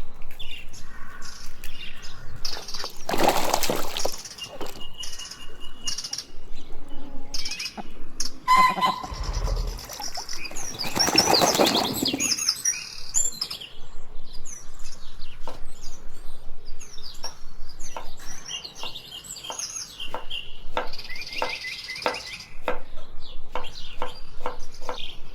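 Small birds chirping and calling in short high notes, with two louder rushing bursts of noise, and a run of sharp clicks in the second half.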